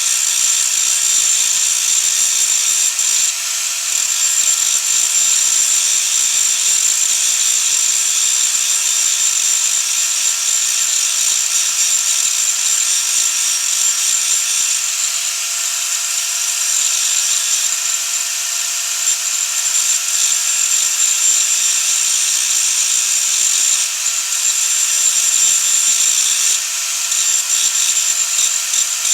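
A small high-speed power tool running steadily with a high-pitched whine, without stopping.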